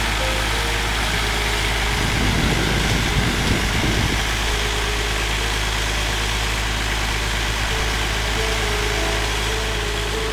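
Engine of a flood-drainage pump running steadily with a low, even hum, pumping floodwater off the pond. A brief low rumble comes about two seconds in.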